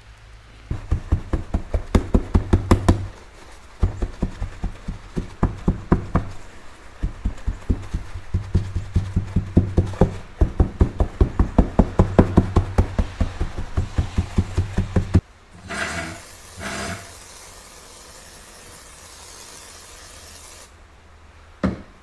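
Aluminium motorcycle cylinder head being slid back and forth by hand over WD-40-soaked sandpaper on a flat surface, lapping the gasket face flat. The strokes come at about four a second in three runs with short pauses, and stop about 15 seconds in.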